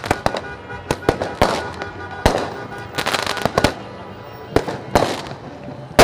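Fireworks going off: a rapid, irregular string of sharp bangs and pops, some loud reports standing out from the rest.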